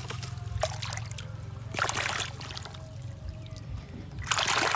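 Water splashing and trickling as a toy is moved about in a basin of water. There are scattered small splashes, then a louder stretch of splashing near the end.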